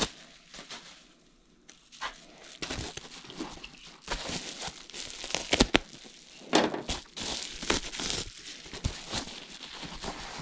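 Plastic packaging and foam airplane parts being handled: irregular crinkling and rustling with scattered sharp clicks, busiest about halfway through.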